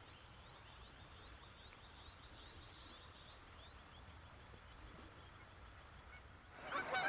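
A flock of geese breaking into loud honking near the end, as they land on the island to settle for the night. Before that, quiet dusk with faint rapid high-pitched chirping.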